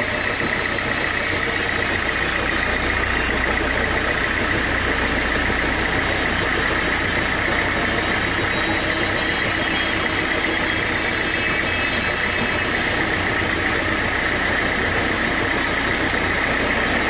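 Sawmill machinery running steadily: a continuous engine-like drone with a steady high whine over it, unchanging throughout.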